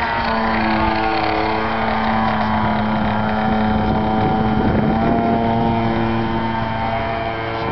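Radio-controlled model airplane's motor running steadily, its pitch shifting as the throttle changes, with a rougher patch about four to five seconds in. Wind buffets the microphone.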